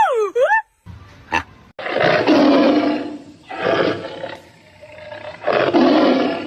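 A big cat gives three long, rough roars, the first about two seconds in. Just before them, at the very start, there is a brief high whistling call.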